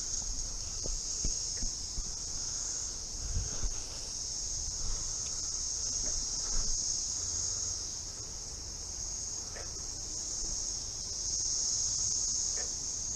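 Chorus of many cicadas: a steady high-pitched drone that swells and eases slowly, loudest near the end.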